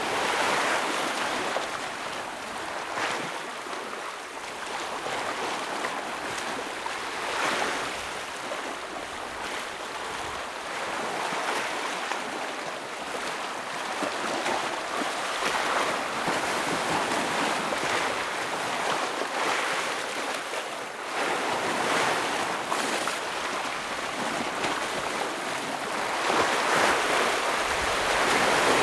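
Ocean waves breaking and washing over rocks in a continuous rushing surf, swelling with each wave; the biggest surges come about half a second in, around 7 s, around 21 s and near the end.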